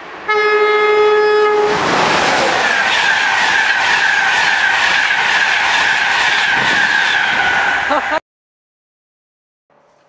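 A train horn sounds one steady note for about a second and a half. A train then passes at speed with a loud rushing noise and a wavering high whine, which cuts off suddenly about eight seconds in.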